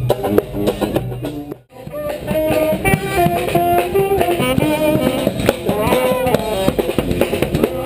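A street band playing music with drums and melody instruments. About a second and a half in, the sound cuts out briefly, then the music resumes with held melody notes over the drums.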